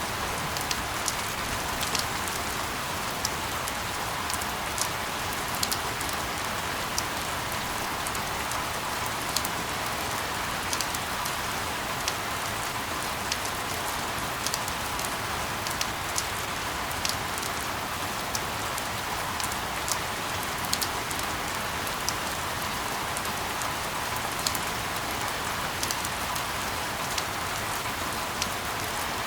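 Steady rainfall: an even hiss of rain with many sharp, irregular drop impacts ticking on a hard surface.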